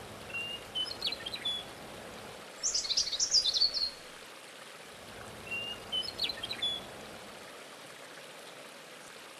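Small birds chirping in three short phrases of quick high notes, a few seconds apart, the middle phrase the loudest and highest, over a steady background hiss.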